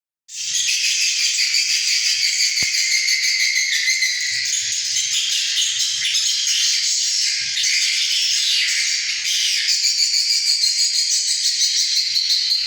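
Many swiftlets twittering at once: a dense, continuous high chirping chatter with a fast flickering pulse, starting abruptly just after the start.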